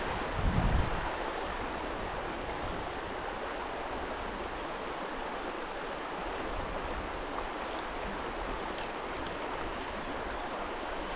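Small mountain stream rushing steadily over rocks. A buffet of wind on the microphone in the first second.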